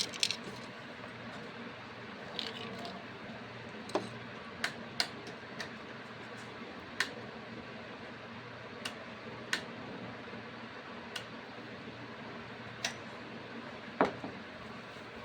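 About a dozen sharp, irregular clicks and taps over a faint steady low hum, typical of small parts being handled while a fridge's starting relay and overload protector are fitted. The loudest tap comes near the end.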